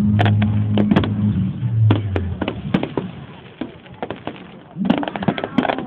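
Fireworks popping and banging over the display's music, whose steady bass cuts out about two seconds in; a quick run of crackling pops comes near the end.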